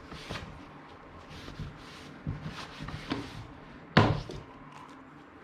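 Workshop handling sounds: a few light knocks and rustles, then one sharp knock about four seconds in.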